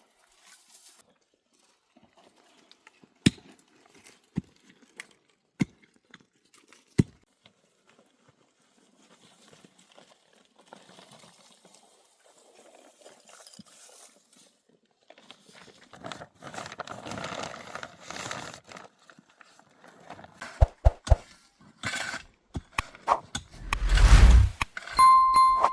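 A few sharp knocks a second or so apart, then a stretch of rustling, then a run of heavier thuds and knocks that grows loudest near the end.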